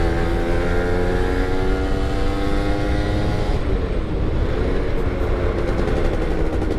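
Yamaha F1ZR two-stroke motorcycle engine at full throttle while riding. Its pitch climbs steadily for about three and a half seconds, breaks off, then picks up again and holds steady.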